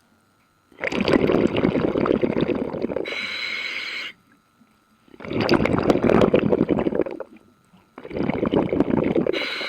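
Scuba diver breathing underwater through a regulator: three long bursts of exhaled bubbles gurgling, each followed or paired with a shorter hiss of inhaled air through the regulator.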